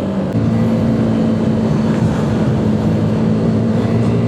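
Motorcycle engine running under way, with a short break in its note just after the start as the revs drop, then holding a steady pitch, over wind rush.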